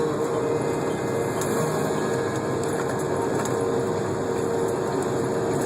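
Steady running hum of an idling truck engine, an even rumble with a constant drone through it.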